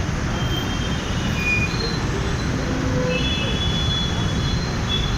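Steady road and wind noise of a motorbike riding through city traffic, with several brief high-pitched squealing tones scattered throughout.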